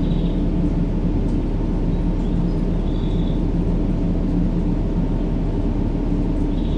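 Steady, deep rumbling sleep noise, a low-pitched white-noise track made to lull a baby, with faint high chirps about every three seconds.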